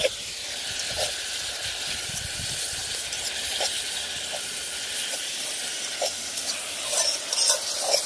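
Chopped onion, bell pepper, scallion, hot pepper, tomato and sausage sizzling as they fry in a pot: a steady hiss, with a few light knocks of a spoon stirring.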